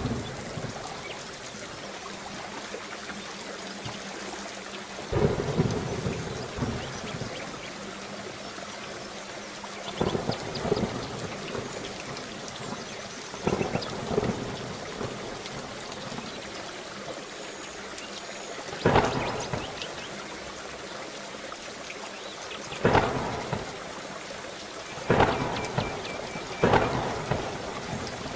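Steady rain with repeated thunder: about seven sudden cracks and rumbles at uneven intervals, each trailing off over a second or so, coming closer together near the end.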